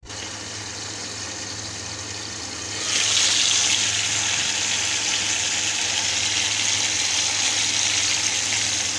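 Potato fries deep-frying in hot oil: a steady sizzling hiss that gets louder about three seconds in, over a low steady hum.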